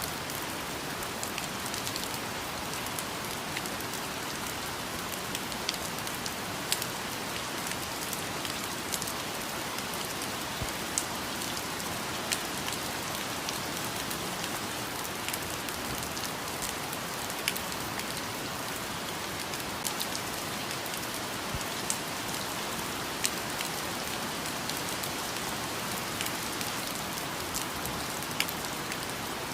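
Steady rain falling, with scattered louder single drops striking close by throughout.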